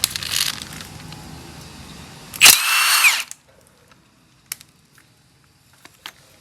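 A power tool on a head bolt of a Type 4 VW engine, run in one short burst of under a second about two and a half seconds in, its motor whine dropping in pitch as it stops. Light tool-handling clatter comes before it, and a few small clicks follow.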